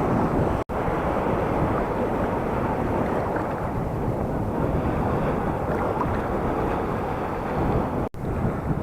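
Sea waves washing and breaking in the shallows, with wind buffeting the microphone. The sound cuts out for an instant twice.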